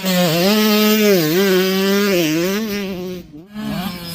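85cc two-stroke dirt bike engine running high in the revs, its pitch dipping briefly several times as the throttle is eased and opened again. Near the end it drops off throttle for a moment, then picks up again.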